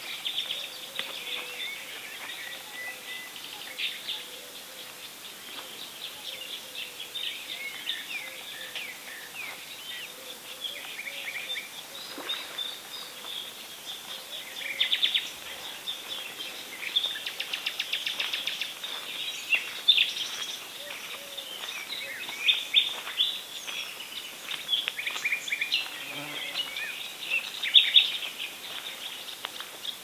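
Several songbirds singing and calling at once: a busy chorus of high chirps and trills, with quick runs of rapidly repeated notes.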